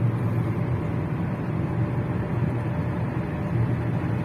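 Steady low rumble of a car driving, the engine and road noise heard from inside the vehicle.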